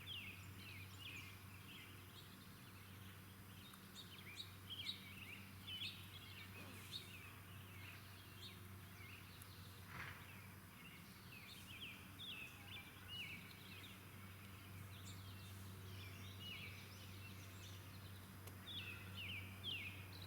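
Faint chirping and twittering of small birds: many quick, short calls coming in clusters throughout, over a low steady hum.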